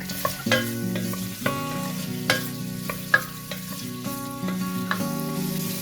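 Bacon and sausage sizzling in hot oil in a frying pan as they are stir-fried, with several sharp clicks of a utensil against the pan. Soft background music plays underneath.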